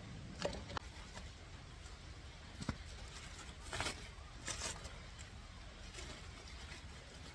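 Scattered small clicks and light knocks, with two short rustles about halfway through, as objects are handled.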